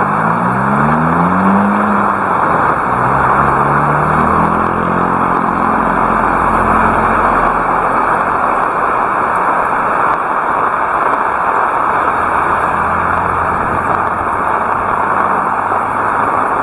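Heavy rain falling in a steady, loud hiss. A motor vehicle's engine rises in pitch as it accelerates over the first couple of seconds, then runs on steadily beneath the rain for several seconds more.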